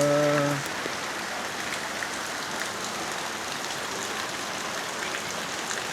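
Steady rain falling, an even hiss with scattered drops ticking. A voice holding one note stops about half a second in.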